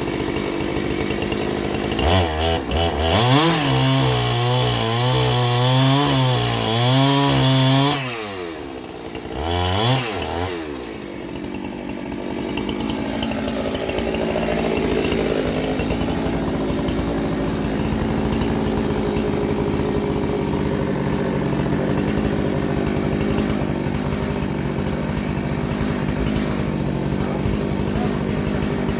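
Chainsaw engine running at high revs for about six seconds with its pitch wavering up and down as if under load, dropping off, revving briefly once more, then settling into a steady lower-speed run, most likely an idle.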